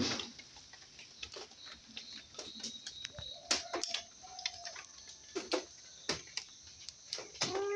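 Scattered sharp ticks and short high chirps from birds, with a longer pitched call starting near the end.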